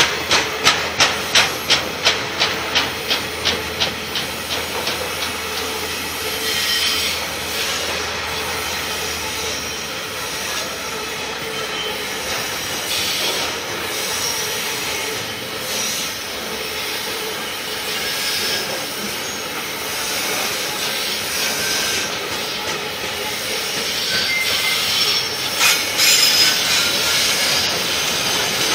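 Loaded container wagons of a freight train rolling past, their wheels clacking over a rail joint at about three or four clacks a second for the first few seconds, then a steady hiss of wheels on rail, with a few more clacks near the end.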